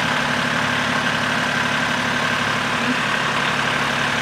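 Small Kubota tractor's engine running steadily at an even speed, with a steady high whine above it.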